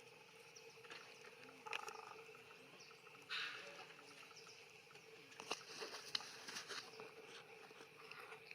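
Faint outdoor ambience: a steady low drone with brief chirps or calls, a short rustle about three seconds in, and a few sharp clicks near the middle.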